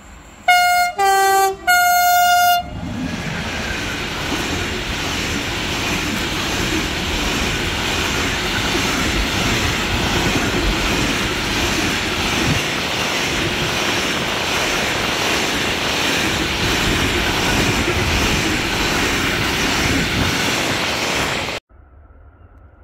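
Train horn sounding three short blasts, the middle one lower in pitch. Then a container freight train passes close by with a steady rumble of wagons and wheels on rail, which cuts off suddenly near the end.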